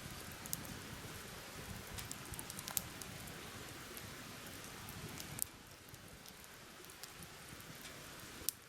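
Light rain pattering: a faint, even hiss with scattered ticks of single drops. It gets quieter about five and a half seconds in.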